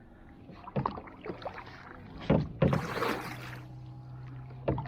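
Kayak paddles dipping and splashing in lake water, with a few sharp knocks in between. The biggest splash comes about three seconds in.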